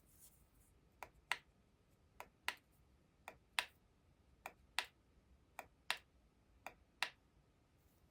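Clicking of a homemade USB volume knob controller being worked: six double clicks, each a soft click followed by a louder one, about a second apart.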